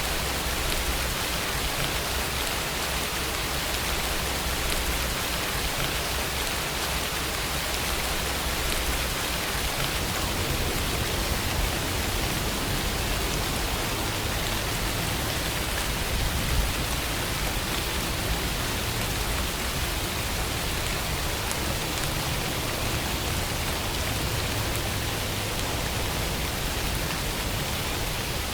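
Steady rainfall, an even hiss of rain with no break, and one brief louder tick a little past halfway.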